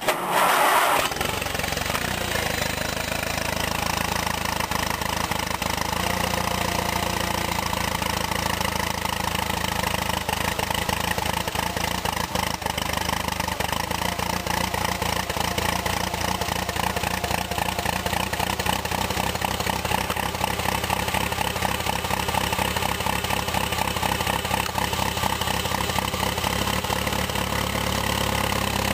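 1952 Case VAC tractor's 124-cubic-inch four-cylinder overhead-valve engine cold-started after sitting for months in the frost. A brief crank catches within about a second, and then the engine runs steadily.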